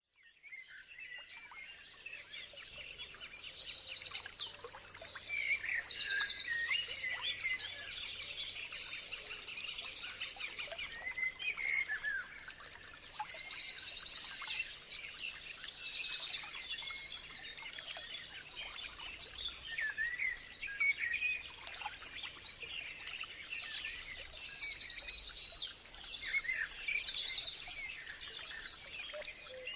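Birds singing. One bird repeats a song of fast high trills about every ten seconds, three times, while other birds chirp throughout. A faint steady high-pitched whine runs underneath.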